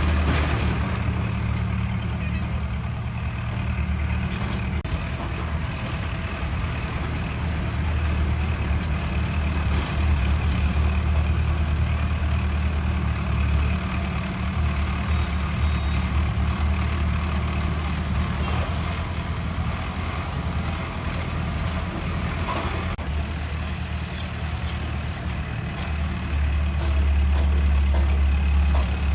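Heavy diesel earthmoving machinery running steadily, a deep engine drone that swells louder about ten seconds in and again near the end as the machine works under load.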